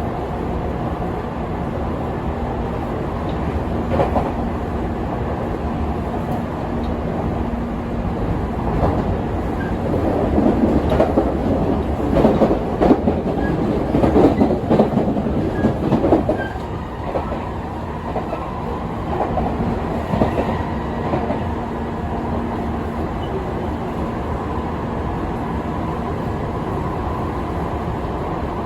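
Tokyu 5050 series electric train running at speed with a steady hum. A spell of loud, dense clattering from the wheels over the track comes about ten seconds in and lasts some six seconds before the even running returns.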